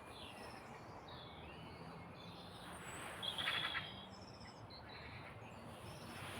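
Small woodland birds chirping faintly over a steady background hiss, with one louder, quick rattling call about three and a half seconds in.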